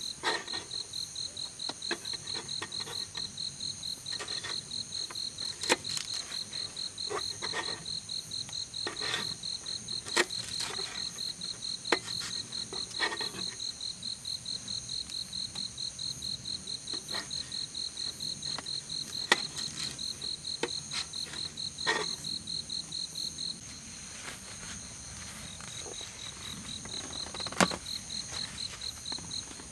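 Crickets chirping in a steady, high-pitched, rapidly pulsed trill that pauses briefly near the end and starts again, with occasional sharp clicks and pops scattered through it.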